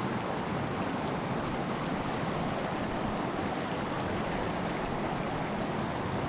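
Small mountain stream rushing over rocks: a steady, even wash of running water.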